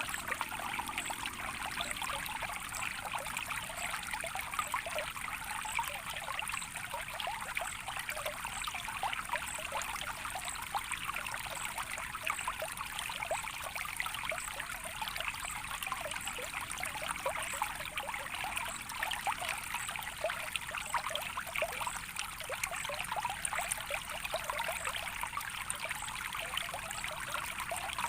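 Small stream of water trickling and splashing steadily, dense with small drips and splashes.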